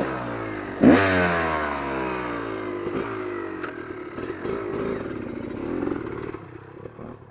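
Two-stroke dirt bike engine revving hard about a second in, its pitch then falling away as the throttle is eased, and running on more quietly before fading near the end.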